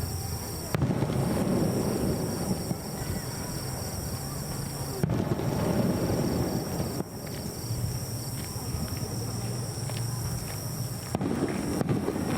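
Aerial fireworks shells bursting: three sudden booms about one, five and eleven seconds in, each followed by a few seconds of rumbling echo. Insects chirp steadily underneath.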